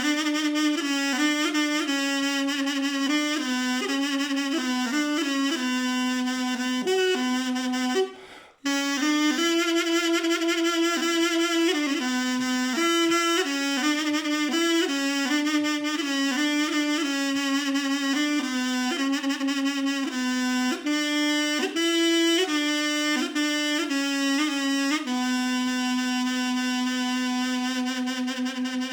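Mey, the Turkish double-reed wind instrument, playing a solo folk melody with short ornamented notes. It breaks off briefly about eight seconds in for a breath, and ends on one long held note.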